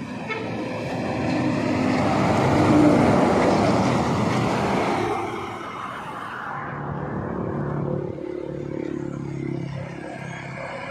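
Road vehicles passing: one goes by, loudest about three seconds in and fading away by about six seconds, then a steady engine hum from other traffic, with another vehicle approaching near the end.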